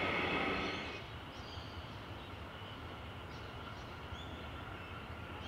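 A suburban electric train's sound fades away about a second in, leaving a low steady rumble with a few faint bird chirps.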